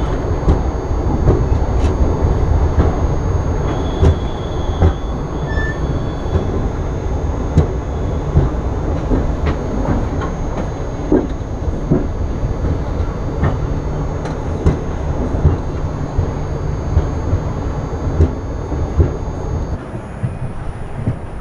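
Passenger train rolling slowly along a station platform as it pulls in: a steady low rumble with irregular clacks from the wheels over rail joints, easing off slightly as the train slows.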